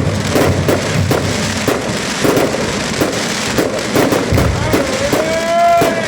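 Fireworks going off in quick succession, sharp bangs and crackles about two to three a second. A long wavering pitched tone rises over them near the end.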